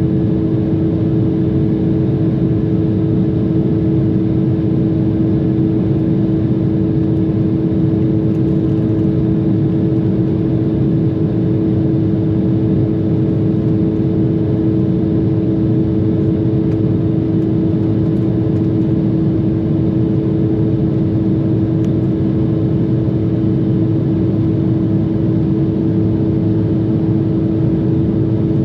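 Inside the cabin of an Embraer regional jet, the engines and airflow make a steady drone with two unchanging hums.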